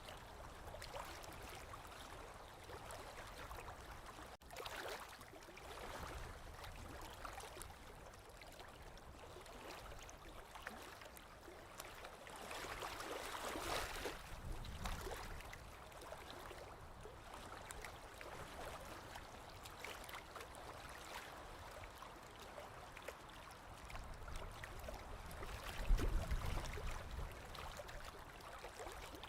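Small waves lapping and gurgling at a lake shore, in gentle swells, with a louder low splash near the end.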